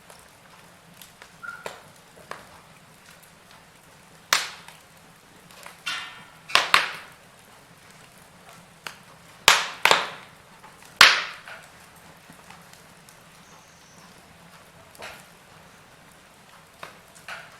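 Wood fire crackling: irregular sharp pops and snaps over a faint steady hiss, the loudest cracks bunched in the middle.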